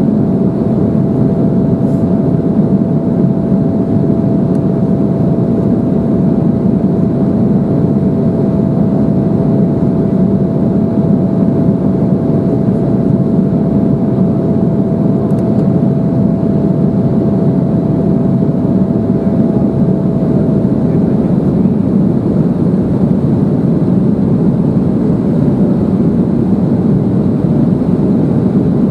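Steady cabin noise inside an Embraer 175 airliner in flight: the rush of air past the fuselage and the drone of its GE CF34 turbofan engines. A faint steady whine runs alongside and fades out about two-thirds of the way through.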